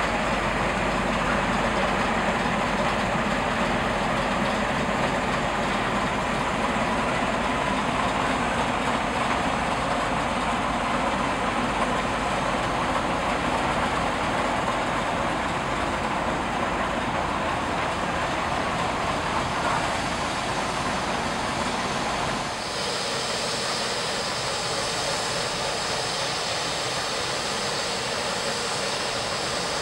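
Small diesel shunting locomotive running as it hauls a goods train past, with the wagons rumbling over the track. About three-quarters of the way through the sound changes suddenly to a steady hiss of steam from a saddle-tank steam locomotive standing at rest.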